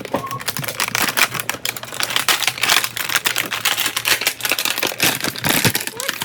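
Dense, rapid crackling and clicking of plastic packaging and small plastic toy pieces being handled as a toy hair dryer kit is unpacked.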